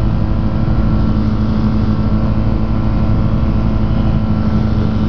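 Rotax engine and propeller of a Quad City Challenger ultralight running steadily at full power during the takeoff roll.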